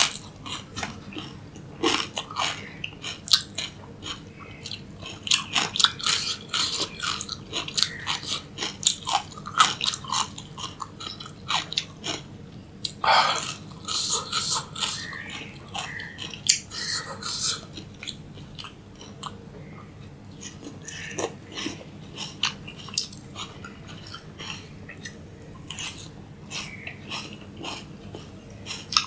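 A person chewing and crunching raw cucumber close to the microphone, with wet mouth sounds. The crunches come irregularly and thickly at first, loudest a little under halfway through, and thin out in the later part.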